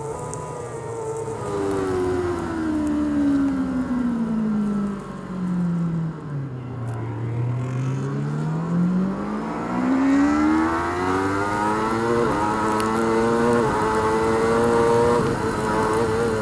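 Racing superbike engine heard from onboard: the revs fall steadily for about six seconds as the bike slows, then climb again as it accelerates. Two quick gear changes come near the end before the engine holds high revs.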